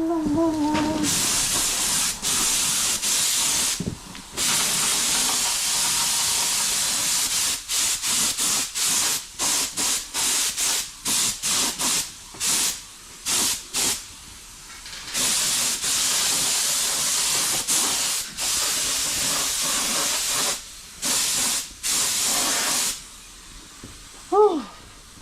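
Air-fed paint spray gun spraying red paint in on-off bursts as the trigger is pulled and released: long sprays at first, then a run of short quick bursts midway, then longer sprays again. A short high-pitched call rises and falls near the end.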